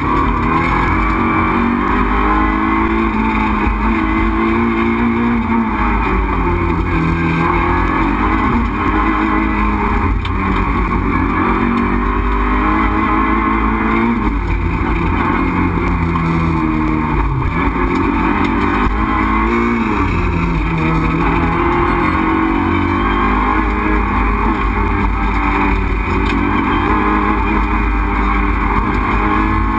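Renault Clio 2 RS Group A rally car's 2.0-litre four-cylinder engine, heard from inside the caged cabin while it is driven hard, loud throughout. Its pitch climbs and drops over and over as the car accelerates and slows for corners.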